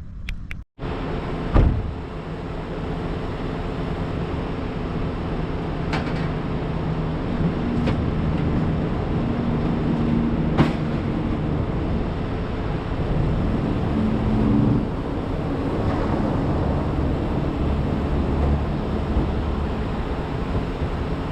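Truck engine running while driving, with steady road noise and an engine drone that rises and falls a little. A loud knock comes about a second and a half in, and a couple of sharp clicks later.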